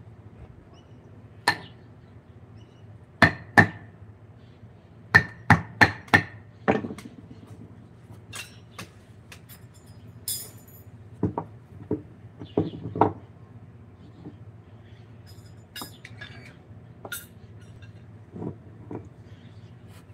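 Hammer striking during woodcarving work: irregular sharp taps, several in quick runs of three or four in the first half and sparser, fainter ones later, over a steady low hum.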